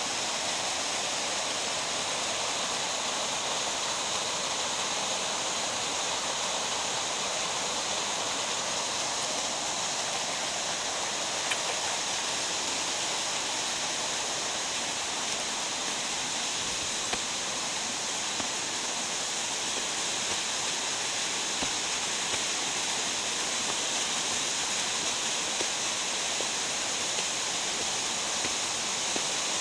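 Rushing water in a mountain gorge: a steady, even hiss of water running over rocks, with a few faint ticks.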